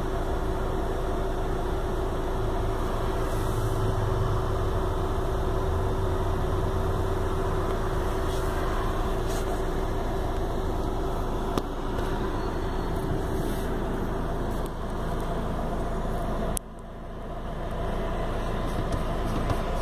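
Peugeot 206 engine idling steadily at about 900 rpm while hot; the revs do not rise with the accelerator pedal pressed. This is the loss of throttle response that sets in once the engine is warm.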